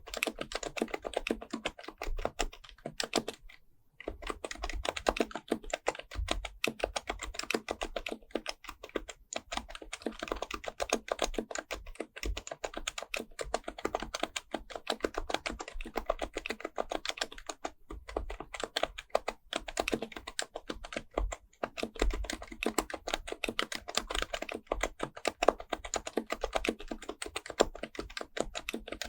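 Typing on an HHKB Professional Type-S keyboard with Topre capacitive switches fitted with BKE-9400A parts: a steady, fast stream of muted keystrokes, with a short pause about three and a half seconds in.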